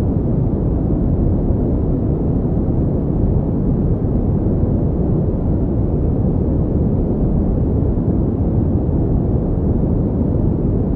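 Pink noise: a steady, unchanging rushing hiss, weighted toward the low end.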